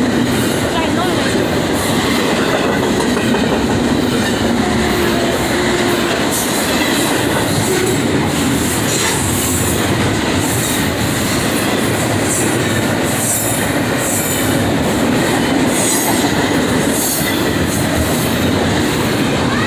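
A long train passing close by: a steady loud rumble of wheels on rail with clicking rail joints and faint high-pitched wheel squeals.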